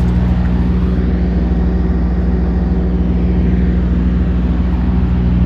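Steady low mechanical drone of a running motor, holding one even pitch with no revving.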